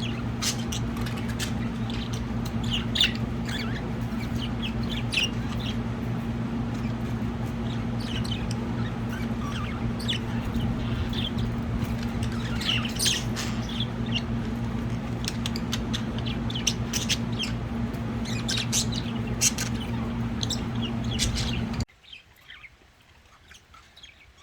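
A flock of pet budgerigars chirping and chattering: many quick, high chirps and squawks over a steady low hum. The hum and chatter cut off suddenly near the end, leaving a few fainter chirps.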